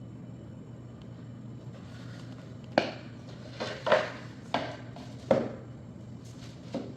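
About five sharp knocks at irregular intervals in the second half, made by hard objects tapping or being set down on laminate flooring.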